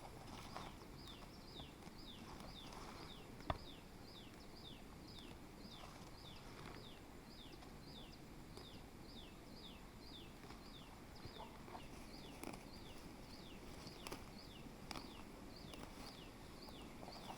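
Faint, high chirps, each falling in pitch, repeated evenly about two to three times a second, from a small animal calling. A single sharp click comes about three and a half seconds in.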